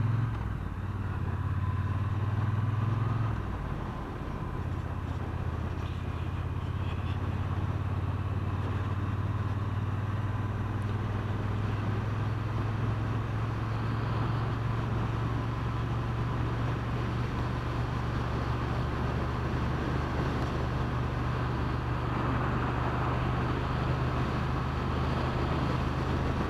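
Triumph Bonneville T120 parallel-twin engine running under way, with road and wind noise. The engine note dips briefly about three to four seconds in, then holds a steady cruising drone.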